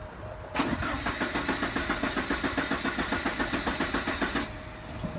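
1988 Porsche 944's four-cylinder engine cranking on the starter for about four seconds with an even chug, about five beats a second, then stopping without catching: a no-start.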